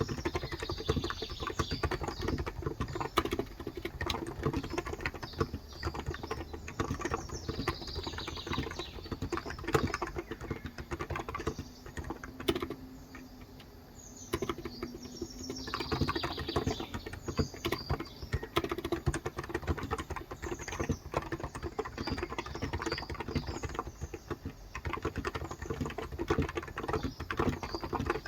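Continuous typing on a Cox Endeavor electro-capacitive (Topre-style) tenkeyless keyboard with 35 g switches: a steady stream of soft keystrokes. Typing pauses for about two seconds near the middle, then resumes.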